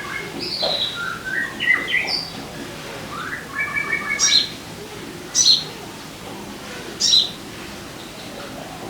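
Sogon bird song: quick whistled phrases of stepped notes in the first half, then short, sharp high calls that sweep downward, one every second or two. This is the kind of song played as a lure to set a sogon singing.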